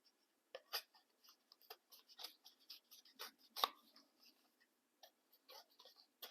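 Quiet handling of paper scraps: irregular light rustles, taps and clicks, the sharpest about three and a half seconds in.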